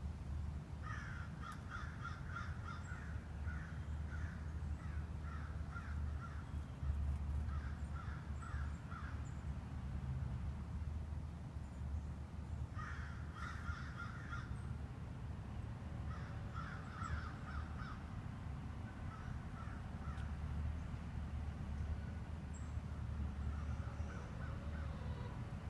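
Birds calling in several bursts of short, quickly repeated notes, with pauses between the bursts. A steady low rumble runs underneath.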